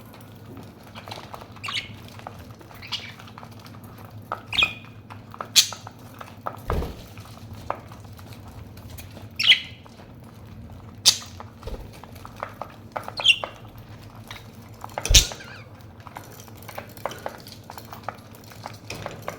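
Pet budgerigars giving short, scattered chirps and squawks every second or two, mixed with sharp clicks and taps and a couple of low knocks.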